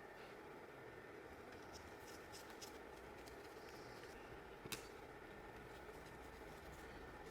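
Near silence: faint room tone with a few light clicks, and one sharp click a little over halfway through.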